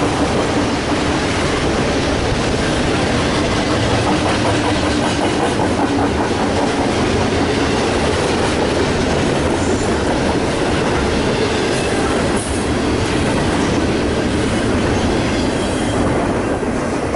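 Double-stack intermodal container train rolling past close by: a steady, loud rumble of steel wheels on the rails. The last car goes by near the end.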